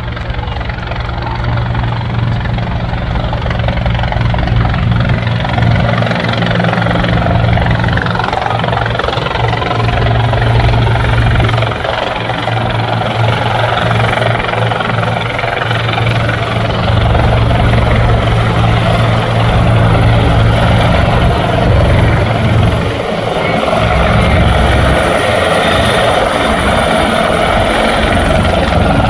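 Bell 412EP twin-turbine helicopter running, its main rotor making a steady low beat under a thin, high turbine whine. It grows slightly louder about halfway through.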